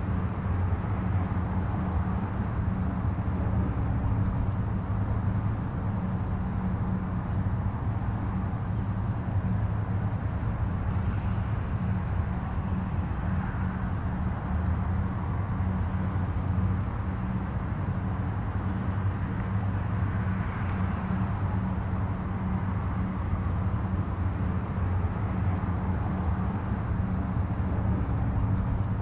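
Distant highway traffic: a steady low rumble of tyres and engines, with a couple of vehicles swelling louder and fading as they pass.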